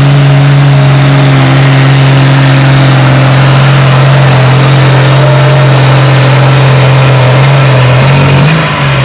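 Antique farm tractor engine running hard at a steady pitch while pulling a weight sled. The note wavers and the sound eases near the end.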